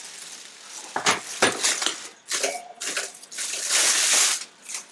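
Gear being handled: two sharp knocks, then about a second of loud rustling like plastic or packaging being moved.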